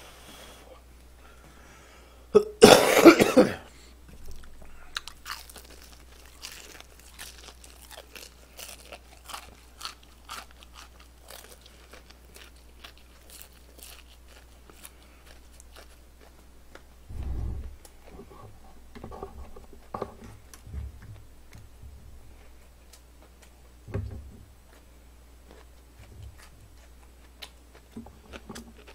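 Chewing crispy fried chicken: crisp crunching and crackling bites with scattered low thumps, and one loud burst about three seconds in.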